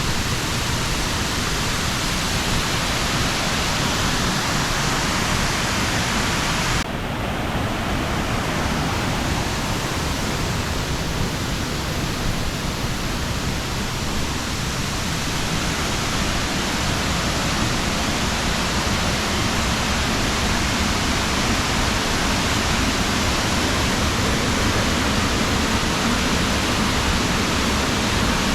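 Steady, loud rush of falling water, with an abrupt change in its hiss about seven seconds in.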